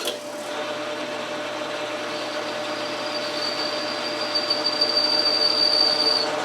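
Logan metal lathe switched on and running steadily, its gear train giving a steady whine. A high thin tone joins about two seconds in and stops shortly before the end.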